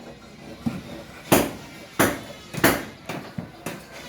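Carpenter's hammer striking wood in a steady series of sharp blows, roughly one and a half a second, typical of nailing timber for a wooden house frame.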